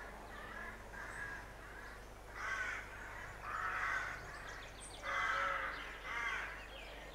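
Birds calling, a series of short calls about half a second each, faint at first with four louder ones in the second half.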